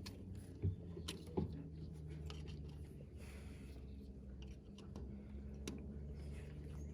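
Faint clicks and rustling of hands handling small parts, over a low steady hum.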